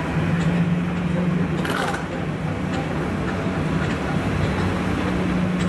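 A steady, loud, low mechanical hum of the kind made by aircraft or airport ground equipment, with a background murmur of voices and a few faint clicks.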